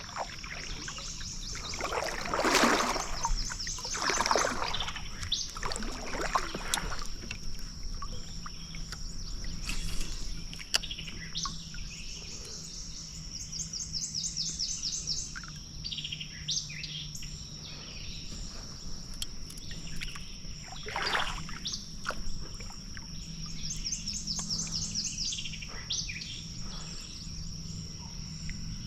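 River-bank wildlife ambience: a steady high insect drone under a bird that repeats a rapid, high trilled phrase about every ten seconds. A few brief noisy swishes come in the first seven seconds and again about 21 seconds in.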